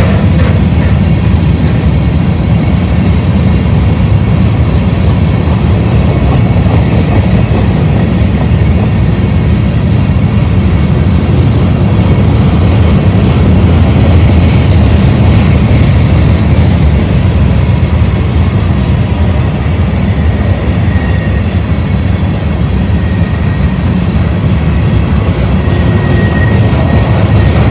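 Loaded freight train of covered hopper cars rolling past close by: a loud, steady rumble of steel wheels on the rails.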